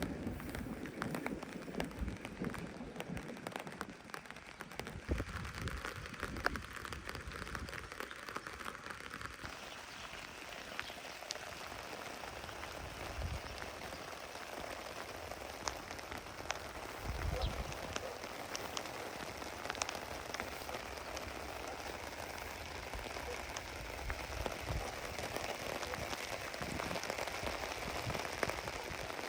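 Steady rain falling on a tent, with many separate drops striking it throughout and a few short low rumbles.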